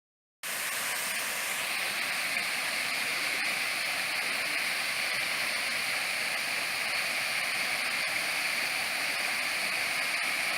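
Waterfall rushing steadily, cutting in abruptly about half a second in.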